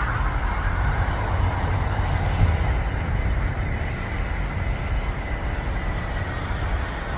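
Boeing 747-400 freighter's four jet engines running as it comes in to land: a steady deep rumble under a broad roar, with a faint high whine held near one pitch.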